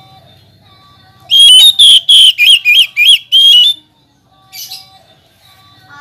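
Oriental magpie-robin singing: a loud run of about seven quick whistled notes, several swooping up and down, then one shorter note about a second later.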